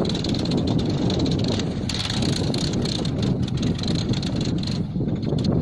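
Swaraj 963 FE tractor's diesel engine running hard under heavy load as it pulls a loaded trolley, a steady low rumble.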